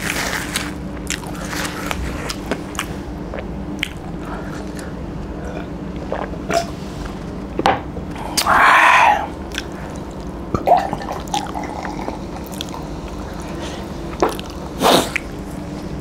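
Close mouth sounds of a person chewing and crunching on chicken from a curry, with many small wet clicks and smacks. A louder sound of about a second comes just past halfway, and a few sharper clicks come near the end.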